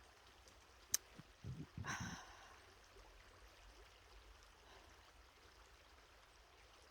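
A sharp click about a second in, then a person sipping hot coffee and letting out a breathy sigh, over the faint steady rush of a nearby stream.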